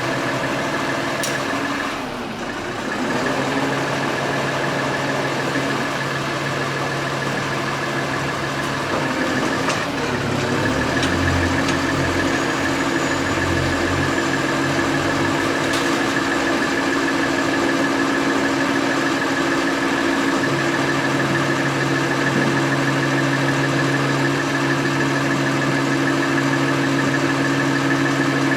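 A vehicle engine idling steadily, its note dipping briefly about two seconds in and shifting again about ten seconds in.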